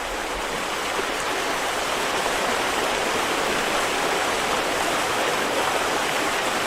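Rushing water: a steady, even rush with no breaks.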